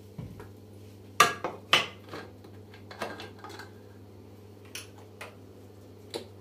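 Kitchen containers and dishes clinking and knocking as they are handled and set down: two sharp knocks about a second in, then a few lighter taps.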